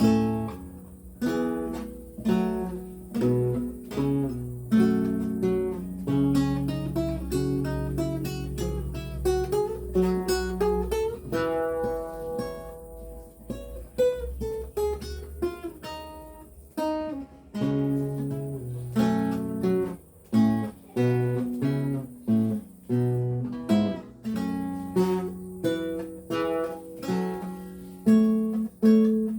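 Renaissance lute played solo, plucking a melody with chords in a steady flow of notes. The passage closes on a held chord near the end.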